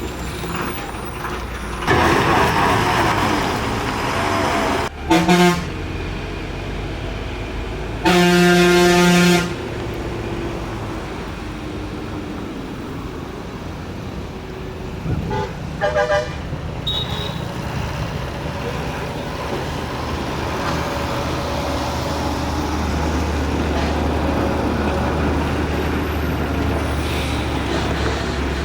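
Truck traffic on a mountain road: steady engine and road noise, with vehicle horns sounding: two short honks about five seconds in, one long blast about eight seconds in, and a few short toots around fifteen seconds in.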